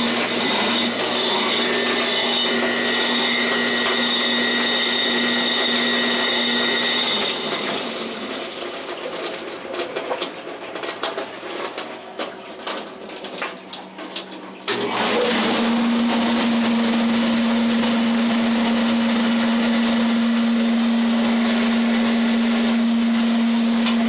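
CMA dishwasher's pump motor running loud, with a steady hum and a high whine; it drops out about seven seconds in, leaving quieter, uneven sounds, then starts again abruptly about fifteen seconds in. The racket is what the technician takes for a bad bearing in the pump motor.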